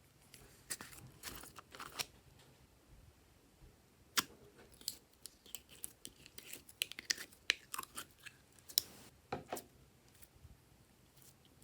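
Glossy slime being squeezed and kneaded by hand, giving irregular sticky clicks, pops and crackles in two spells with a short pause between.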